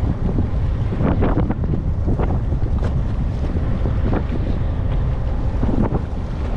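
Wind buffeting the microphone on a fishing boat at sea, with irregular gusty rushes over a steady low rumble of the boat and the water.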